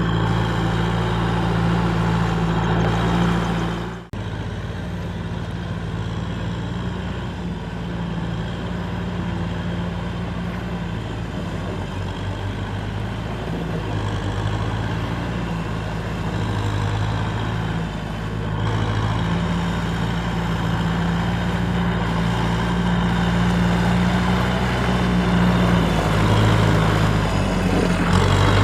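Kubota M6040SU tractor's diesel engine running steadily as the tractor drives, with a brief sharp drop about four seconds in.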